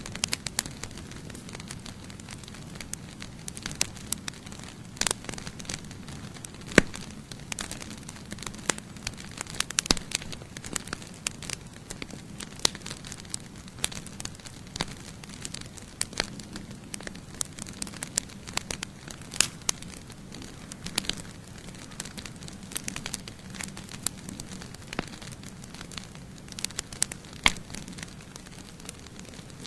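Campfire crackling: irregular sharp pops and snaps over a low, steady rush of burning, with one louder pop about seven seconds in.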